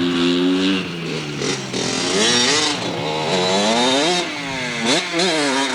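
Dirt bike engine revving up and down, its pitch rising and falling several times in quick succession.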